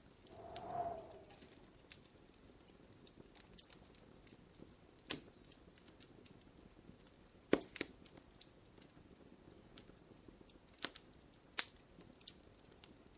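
Wood fire crackling in a fireplace: irregular sharp pops and snaps, a few louder ones, over a faint steady background. A brief tone swells and fades about a second in.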